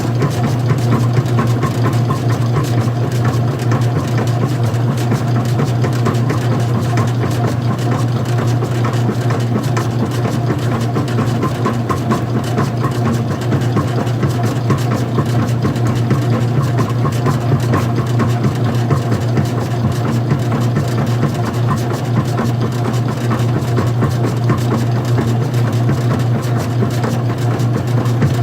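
Electric motor and drive belt of an old-style front-loading washing machine running steadily, with a strong low hum throughout.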